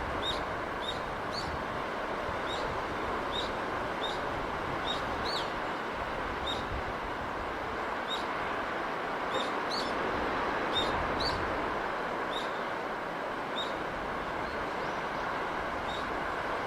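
Steady rushing of sea and breeze, with a small bird giving short high chirps about once a second.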